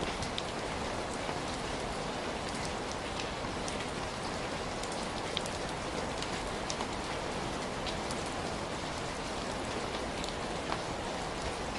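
Steady rain falling, a continuous even hiss with many individual drops ticking and pattering on a surface.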